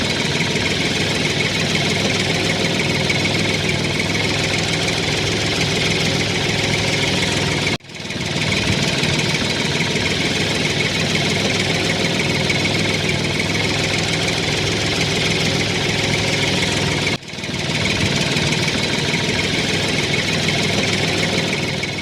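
Small motor of a DIY model tractor running steadily, cutting off abruptly twice and starting again.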